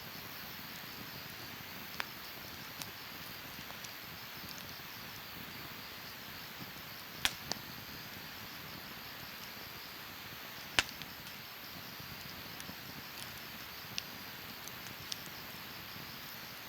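Wood campfire burning, with scattered sharp crackling pops over a steady low hiss; the loudest pops come about seven and eleven seconds in.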